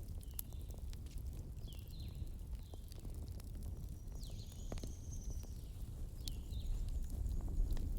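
Campfire burning with a steady low rumble and scattered sharp crackles and pops, a handful across the few seconds. Short high falling chirps come and go several times over it.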